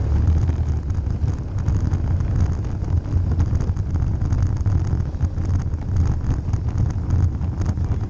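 Suzuki Ozark quad bike's single-cylinder engine running steadily under way, with wind buffeting the microphone.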